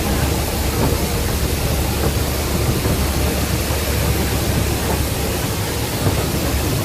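Miniature railway train running along the track, heard from an open carriage: a steady low rumble with an even rushing hiss.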